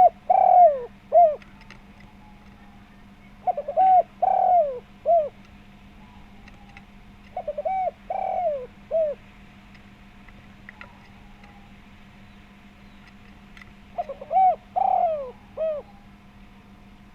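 Spotted dove (tekukur) cooing: four short phrases of rounded coos, each a quick run of notes ending in a longer coo and a short final note, spaced a few seconds apart. A faint steady hum runs underneath.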